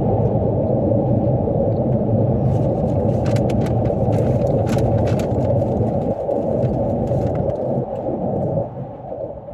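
A Chicago 'L' elevated train passing directly overhead, heard from beneath the steel tracks: a loud, heavy rumble with sharp clacking from the wheels on the rails. The rumble starts to fade about eight and a half seconds in.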